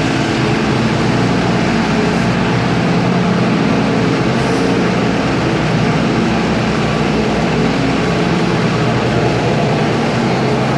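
A school bus engine running steadily as the buses pull in, a low, even hum with no change in level.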